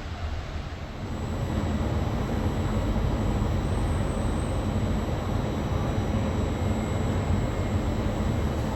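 Regional train moving through the station, a heavy rumble that grows louder about a second in and then holds steady.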